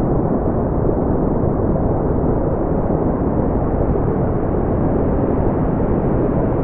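Brown noise: a steady, even, deep rushing hiss with most of its energy in the low end and nothing bright above it, unchanging throughout.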